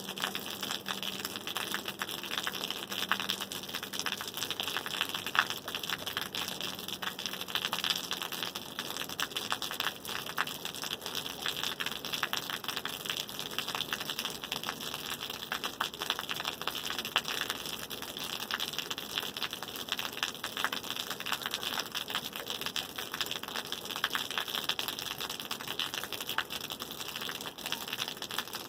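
Steady rain: a dense, even patter of many small drop impacts on a surface.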